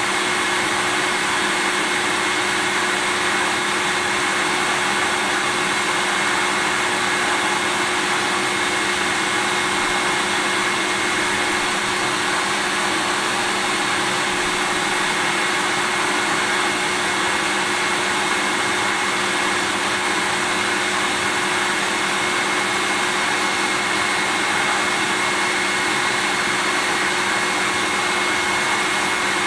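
Vacuum cleaner running steadily without any change: an even rushing noise with a steady high whine and a few low steady tones beneath it.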